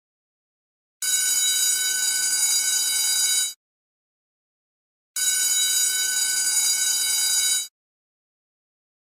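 Electric school bell ringing in two bursts of about two and a half seconds each, with silence between them.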